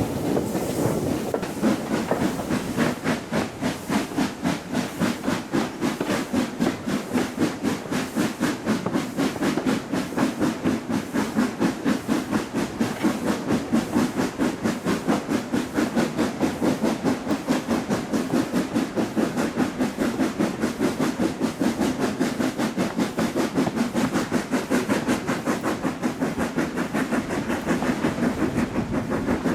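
Steam locomotive working under steam, its exhaust chuffing in a steady, rapid rhythm.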